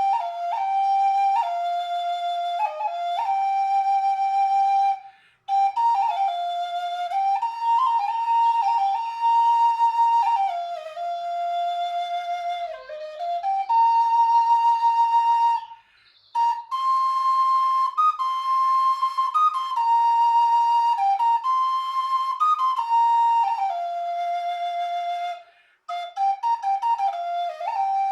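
Solo flute playing a slow, wandering melody in long phrases, with short breaks between phrases about 5, 16 and 26 seconds in.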